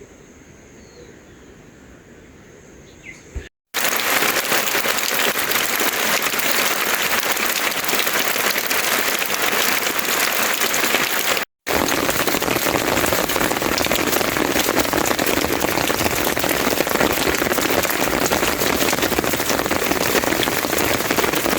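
Heavy rain falling in a dense, steady hiss that starts abruptly about three and a half seconds in and is briefly cut off around the middle. Before it, faint bird chirps over a steady high insect-like tone.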